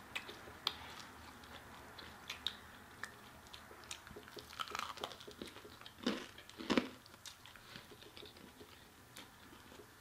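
Close-up eating sounds of chicken wings being bitten and chewed: soft wet mouth clicks and smacks scattered throughout, with a couple of louder ones about six and a half seconds in.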